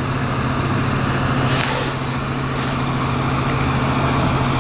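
A motor vehicle's engine idling with a steady low hum, with two brief hisses about one and a half and two and a half seconds in.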